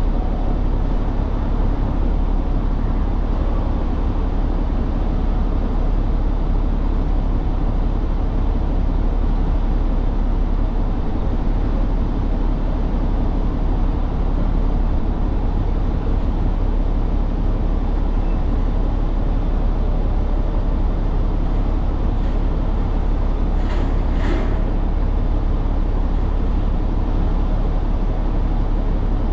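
Tractor-trailer truck's engine and road noise heard from the cab: a steady low rumble while driving, with a brief hiss near the end.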